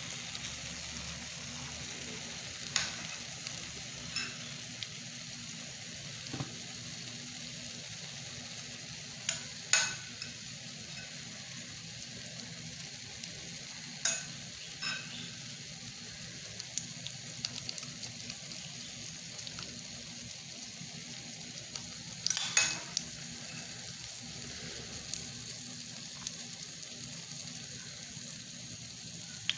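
Eggs and vegetables frying in vegetable oil in a pan: a steady sizzle, broken by a few short sharp scrapes or knocks of a utensil, the loudest just past halfway.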